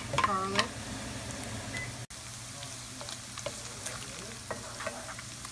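Chopped onion and turkey bacon frying in oil in a pan: a steady sizzle with scattered small pops.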